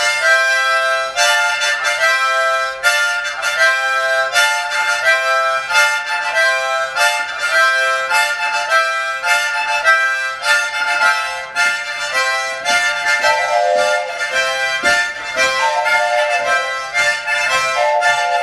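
Harmonica playing the "train" rhythm: chords alternate between breathing in and breathing out, each stroke articulated with a "tka" so it chugs like a train. The chords pulse in a fast, even beat that does not stop.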